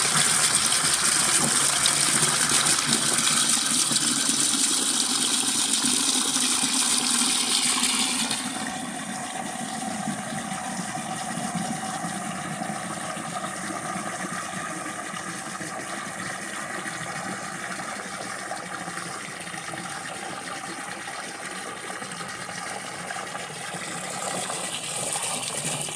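Water running into a plastic 5-gallon bucket, filling it. The rush is loud for the first eight seconds or so, then drops to a quieter steady flow.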